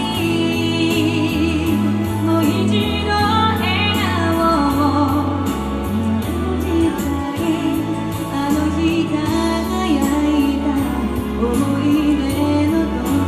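A woman singing a song live over a backing of bass and a steady drum beat, her voice wavering with vibrato on held notes.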